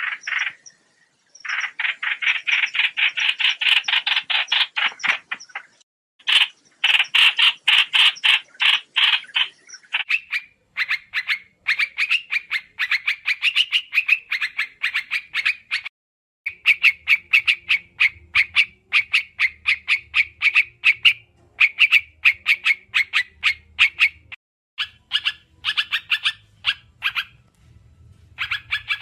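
Trao trảo songbird call recording used as a trapping lure: long bursts of fast, rapidly repeated chattering notes, a few seconds each with short pauses between. A faint low hum sits under the later bursts.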